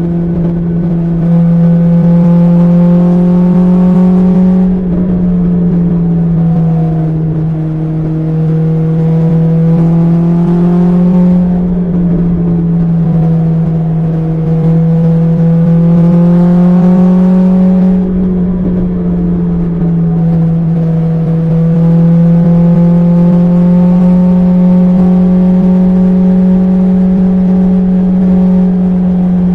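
BMW S1000XR's inline-four engine heard through an Akrapovic exhaust, running at a steady cruise, its note rising and easing slightly a few times over a low rumble.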